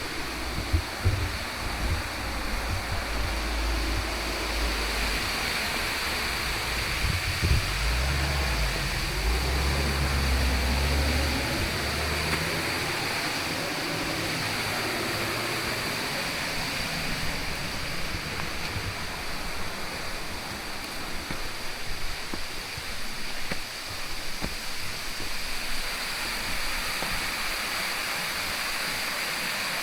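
Steady rush of flowing water from a mountain stream or waterfall, an even hiss. A heavy low rumble sits under it for about the first twelve seconds, then drops away.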